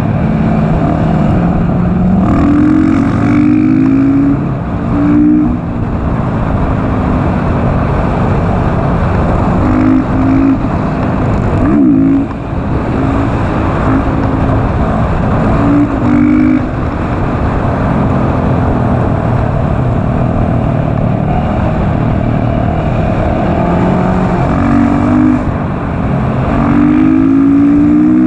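KTM SMC R supermoto's single-cylinder engine revving up through the gears again and again and easing off between pulls, over heavy wind rush on the microphone.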